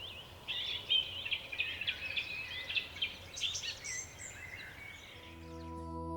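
Wild songbirds singing in quick, busy chirps and trills. About five seconds in, the birdsong stops and soft ambient music with long held tones fades in.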